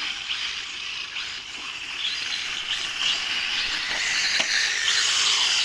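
1/10-scale front-wheel-drive RC rally cars running on a dirt track: a high hissing, buzzing mix of motors and tyres on loose dirt, growing louder from about two seconds in as the cars come closer, with a few sharp clicks of cars hitting the ground or each other.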